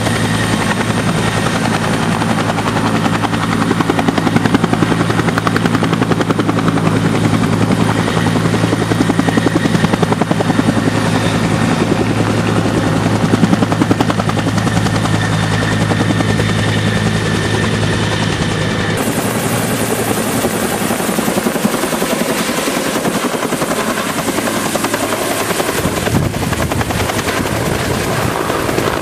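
Firefighting helicopter running, with a steady low rotor beat and a high whine above it. About two-thirds of the way through, the sound changes abruptly: the low rotor tones drop away and a hissy, airy noise takes over.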